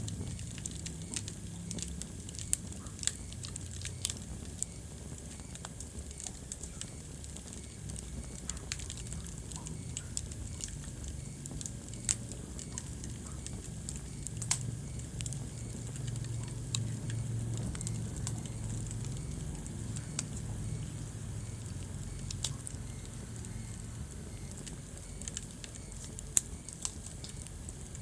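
Wood fire burning in a fireplace: irregular crackling with scattered sharp pops over a steady low rumble of the flames, with one of the loudest pops near the end.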